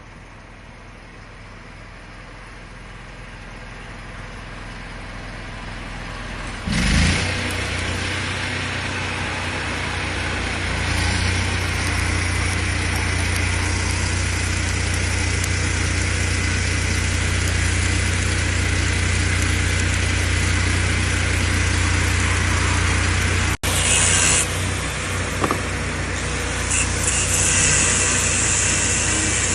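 An engine running steadily with a strong low hum and a steady hiss over it, growing louder over the first several seconds with a sudden loud onset about seven seconds in. The sound drops out briefly a little past two-thirds of the way through, and short louder bursts follow.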